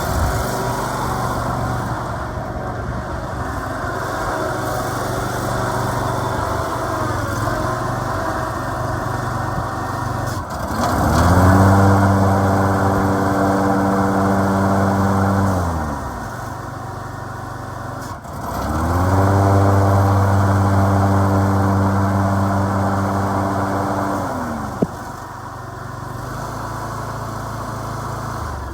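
Ferris ISX2200 zero-turn mower's 28 hp Briggs & Stratton Vanguard V-twin running at idle, revved up twice to a steady high speed for about five seconds each time and dropping back to idle. There is a single sharp click near the end.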